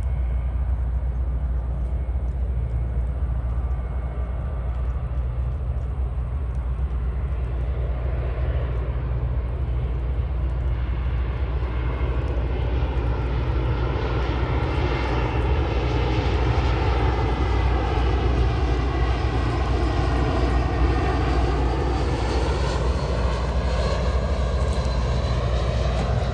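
Jet airliner arriving to land, its engine noise building and passing close by, with a phasing sweep that falls and then rises again about three-quarters of the way through as it goes past.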